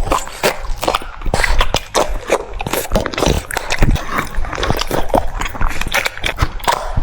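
French bulldog chewing cucumber: a quick, irregular run of crunches and chomps.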